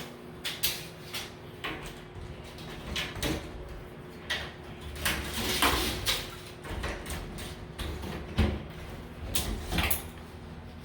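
Scattered knocks, clicks and scuffs of someone handling things while measuring a closet opening, with a longer scraping rustle about five to six seconds in.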